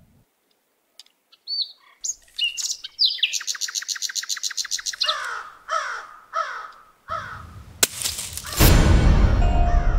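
Birds chirping: a few short chirps, then a rapid even trill, then a row of four falling calls. Near the end a sharp crack comes, then a loud, deep, noisy swell.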